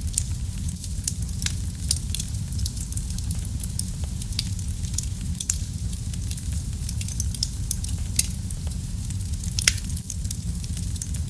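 Wood fire burning in a fireplace: a steady low rumble of the flames with irregular sharp crackles and pops, two louder pops standing out, one about eight seconds in and one near the end.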